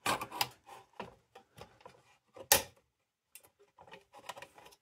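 Sheet-metal clicks and knocks from a hot blast lantern's globe and lift mechanism being worked by hand, with one louder clack about halfway through; the globe is not seating all the way down.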